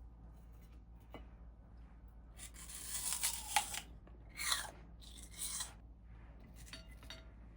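Kitchen food-preparation noises: a few short rustling, crunching strokes, the longest about two and a half seconds in.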